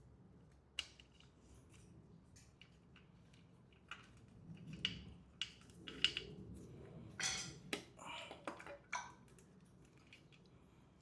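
Irregular metallic clicks, clinks and short scrapes of hand tools and loose bolts while the oil pump is unbolted from a Mini Cooper S N14 engine, busiest in the second half.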